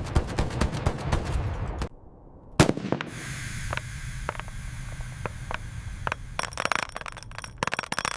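Rapid automatic gunfire from the fighter's cannon, about ten shots a second, stopping about two seconds in. A single loud bang follows a moment later, then scattered sharper reports over a hiss, bunching into a quick cluster near the end.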